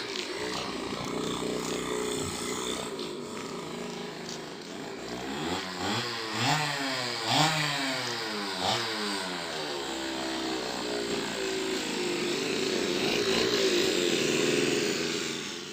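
Motorcycle engine running, its pitch rising and falling again and again as the throttle is worked, most busily in the middle of the stretch, then running steadier.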